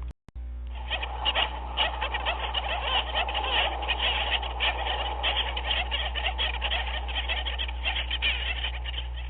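A dense, steady chorus of many overlapping short animal calls from a looped nature-ambience track, which drops out for a moment just after the start.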